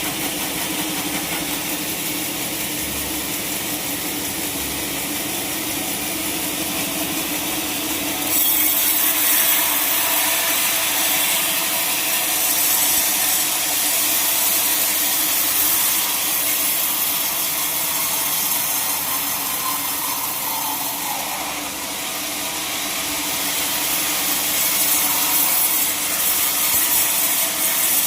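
Sawmill saw running with a steady hum, then biting into a log about eight seconds in and cutting steadily through the wood with a loud, hissing rasp.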